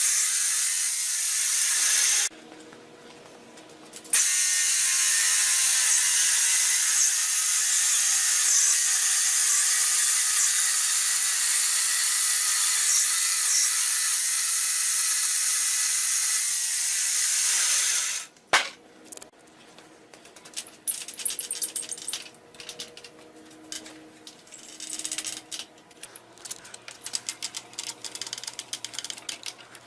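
Wood-cutting machinery running with a steady, hissing, grinding noise that drops out briefly about two seconds in. It stops abruptly about 18 seconds in and gives way to quieter irregular clicks and rattles.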